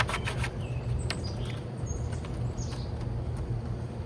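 Short bird chirps over a steady low hum, with a few sharp clicks near the start as a hive box is opened.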